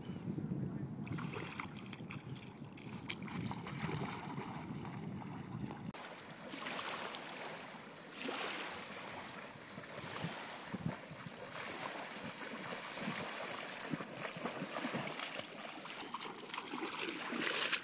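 Water splashing and sloshing, with wind rumbling on the microphone; about six seconds in the low rumble cuts out abruptly and brighter, irregular splashing carries on.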